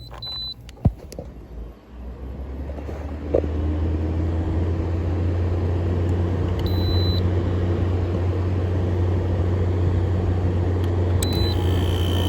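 Midea 5,000 BTU window air conditioner starting up: a short beep from the control panel, then the fan comes up and the GMCC compressor cuts in with a click about three seconds in, settling into a steady low hum. Short beeps sound again around seven seconds and near the end.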